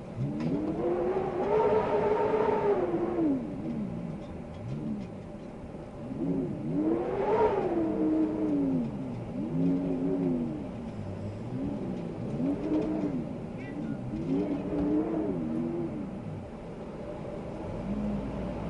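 Wind howling in gusts, each gust a moaning tone that rises and falls in pitch. The strongest gusts come about a second in and again around seven seconds, followed by several shorter ones.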